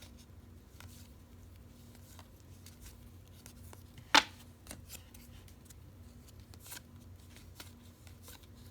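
Trading cards being handled and flipped through one by one, with faint soft flicks and rustles and one sharp click about four seconds in.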